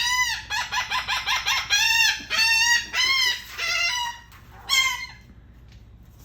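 A gull calling loudly: a quick run of short, yelping notes, then several longer arched calls, stopping about five seconds in.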